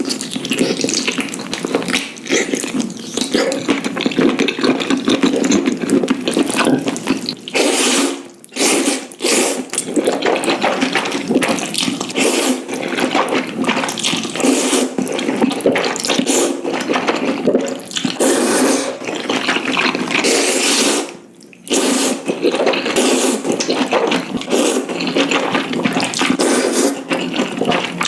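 Ramen noodle soup being slurped and eaten close to the microphone: wet sucking and slurping in dense, irregular bursts, with two short pauses.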